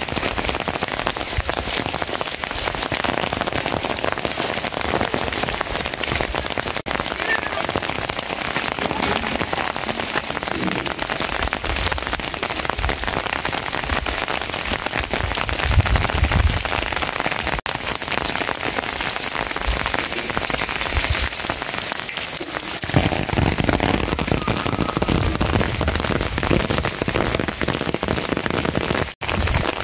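Steady rain falling, an even hiss of drops, growing deeper and fuller for the last several seconds.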